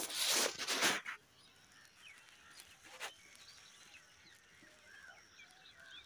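A loud burst of rustling noise for about the first second, then faint chirps of small birds, with one sharp click about three seconds in.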